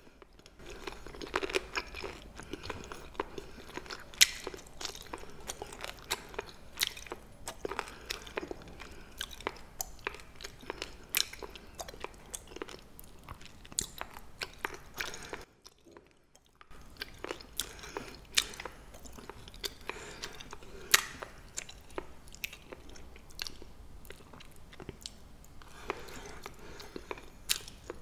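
Close-miked chewing of crisp blanched Welsh onion rolls (pa-ganghoe), a dense run of sharp crunches. It stops for about a second a little past halfway, then goes on.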